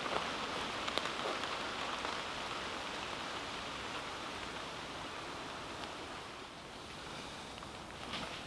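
Steady rain falling, an even hiss of drops with a couple of sharper ticks about a second in.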